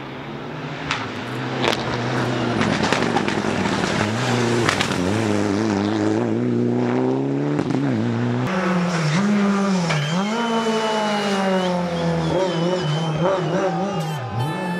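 Rally car engine at high revs as the car closes in and goes through, the revs climbing and dropping with gear changes and lifts off the throttle. There are sharp cracks in the first few seconds, and a thin high whine can be heard near the end.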